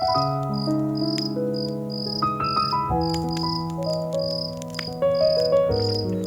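Crickets chirping in a steady rhythm, about two chirps a second, over soft sustained music chords that change every few seconds.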